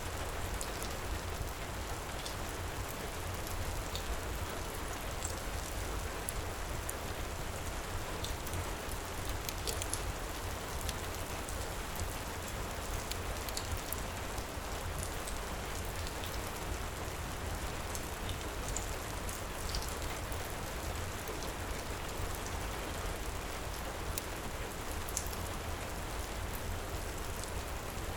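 Heavy rain pouring in a steady hiss over a low rumble, with scattered small sharp crackles throughout.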